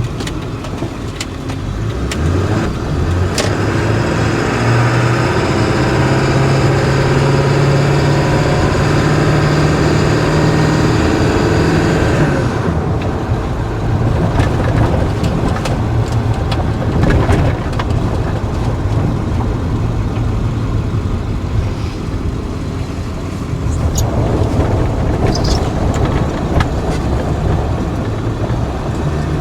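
2000 Ford F350's 7.3 L Power Stroke turbo-diesel V8 running as the truck drives. The engine note climbs slowly for about twelve seconds, then drops abruptly and settles, and shifts again near the end.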